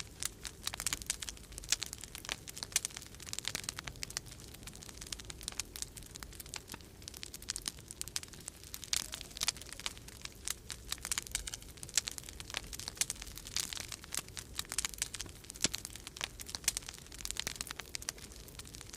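Wood fire crackling in a fireplace: a dense, irregular run of small sharp pops and snaps, over a steady low rumble of winter storm wind.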